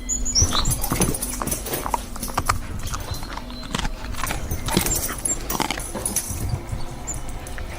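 A pack of African wild dogs scuffling and feeding, with irregular knocks and thuds and a few short high-pitched chirps near the start.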